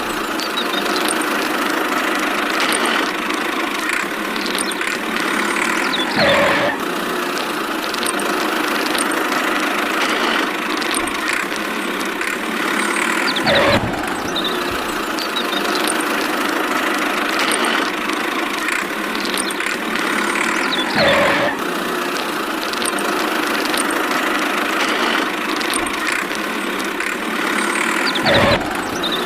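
An engine-like motor running steadily at idle, with a brief swoop about every seven seconds.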